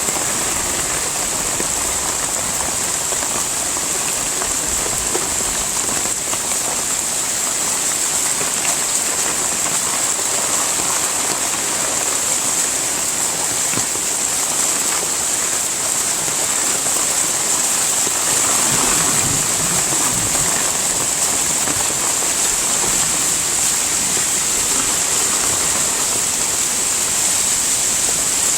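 Heavy rain falling steadily, a constant even hiss of drops with no letup.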